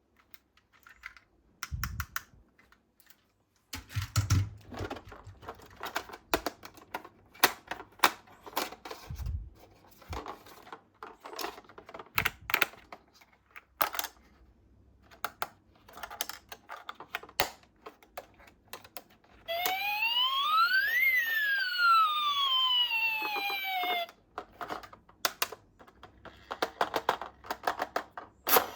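Small toy police car models clicking and clattering as they are handled and set down. About two-thirds of the way through, a siren wails up and down once for about four seconds, then cuts off suddenly.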